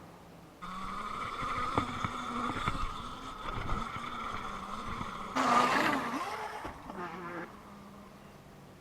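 Happy Run F18 electric dirt bike's motor whining steadily under riding, with a few sharp knocks about two seconds in and a loud rushing burst of noise a little past the middle. The whine starts suddenly and stops near the end.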